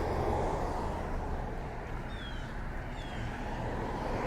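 Steady road traffic noise, the hiss and rumble of passing cars, with a few faint short chirps from a bird.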